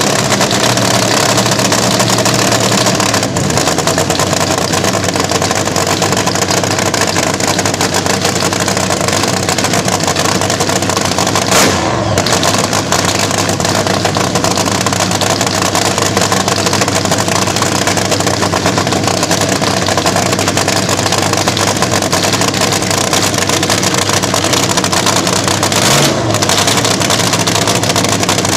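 Vintage slingshot dragster engine running loud and steady with no let-up, with one short louder moment a little under halfway through.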